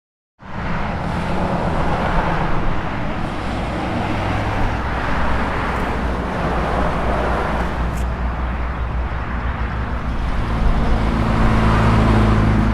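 Steady engine hum and road noise of a moving car, as heard from inside the car, starting abruptly about half a second in.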